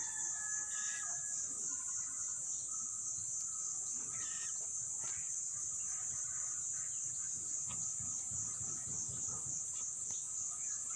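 Steady high-pitched chirring of crickets or other insects, with a few faint bird calls near the start and about four seconds in.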